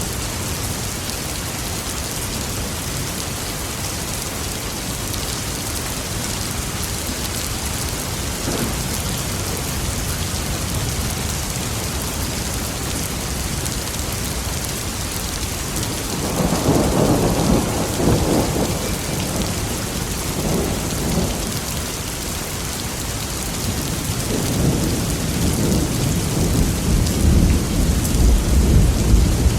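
Steady heavy rain with thunder: a rumble about halfway through, and another longer, deeper rumble building near the end.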